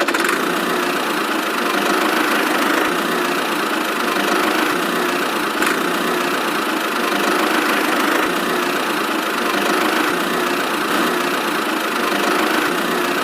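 A motor running steadily and continuously, with no change in speed.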